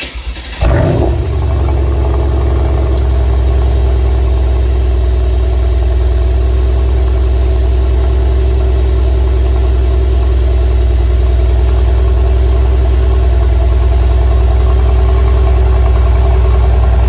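Mercedes-AMG C63 (W205) twin-turbo V8 with an Aerodus titanium exhaust system, starting up with a short, ragged burst and then running at a loud, steady idle.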